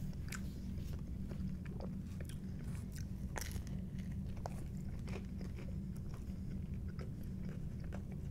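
Close-miked biting and chewing of Domino's pizza crust: scattered crisp crunches and mouth clicks, the sharpest about three and a half seconds in, over a steady low hum.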